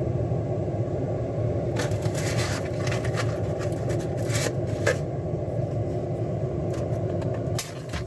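4-inch inline duct fan running with a steady rumbling whoosh, with a few clicks and scrapes over it for a couple of seconds in the middle. Shortly before the end the sound drops suddenly to a lower level.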